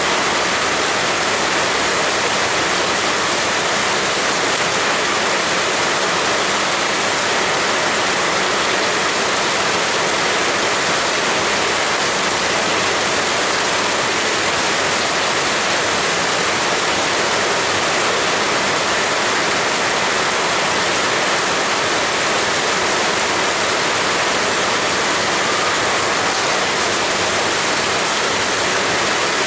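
Heavy rain pouring down, a steady, even hiss with no separate drops, gusts or thunder standing out.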